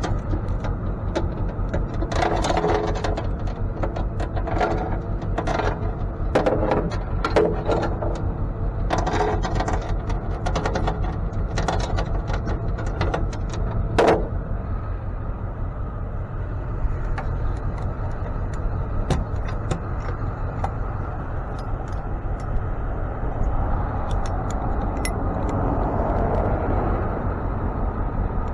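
Steady low rumble of a running tow truck, with clattering clicks and knocks through the first half and one sharper knock about halfway in.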